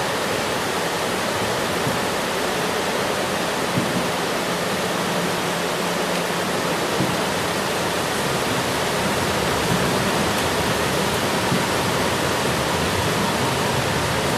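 Steady, even rain noise, a dense hiss with no letup.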